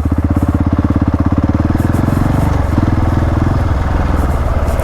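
Single-cylinder dual-sport motorcycle engine running at low, steady revs with an even, rapid pulse, easing briefly about halfway through before carrying on.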